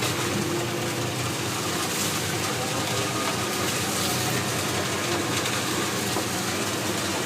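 A lobster boat's engine running steadily under a constant hiss of wind and water.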